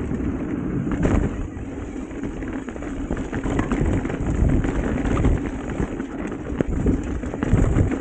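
Ibis Mojo HD5 mountain bike descending a wet dirt trail: wind buffeting the camera microphone over the rumble of tyres on dirt, with the bike's frame and drivetrain rattling and knocking over bumps.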